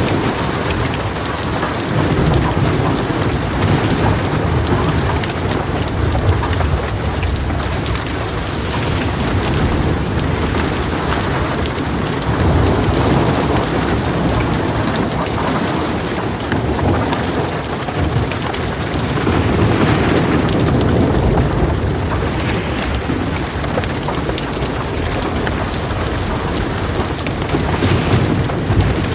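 Heavy rain falling steadily on a metal roof, with low rolling thunder that swells and fades several times.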